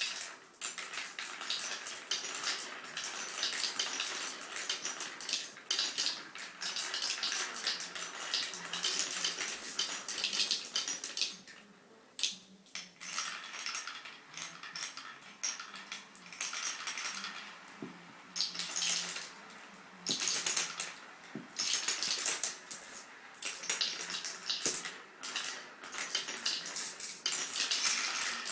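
Marbles rolling and clattering down a homemade marble run: a dense run of hard clicks and clacks in bursts, with short lulls between runs.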